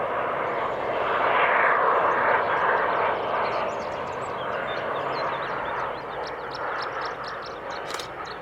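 A passing airliner's engines: a broad rushing noise that swells to its loudest about a second and a half in, then slowly fades away.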